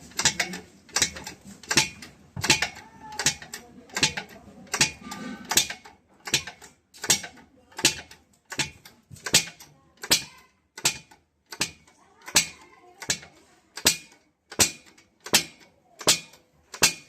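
Repeated hammer blows, quick and uneven at first, then settling about six seconds in into a steady beat of roughly four blows every three seconds.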